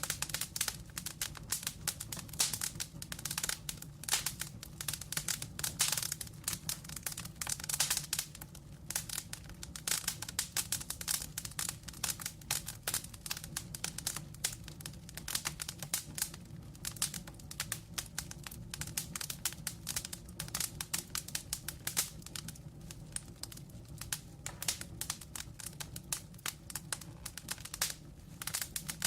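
Wood fire burning in a fireplace, logs crackling and popping in quick, irregular snaps over a low steady rumble of flame.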